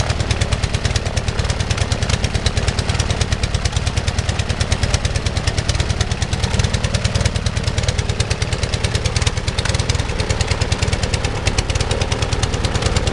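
Global half-VW engine, a two-cylinder four-stroke boxer, running steadily and turning its propeller, with a rapid, even train of firing pulses.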